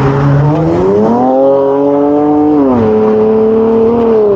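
A nearby motor vehicle's engine accelerating: its pitch climbs about a second in, holds, then drops suddenly and settles at a steady lower note, as with a gear change.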